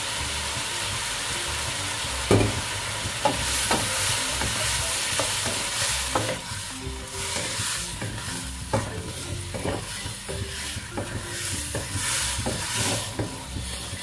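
Shark meat frying in a pan with salted black beans and freshly added oyster sauce, sizzling steadily as it is stirred. A utensil knocks and scrapes against the pan at irregular intervals, the sharpest knock about two seconds in.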